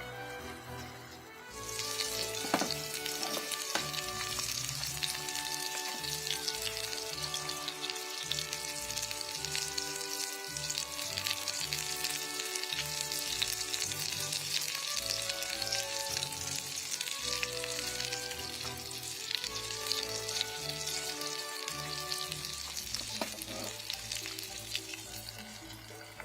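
Food sizzling and crackling as it fries in a hot pan. The sizzle starts about a second and a half in and fades near the end, with background music throughout.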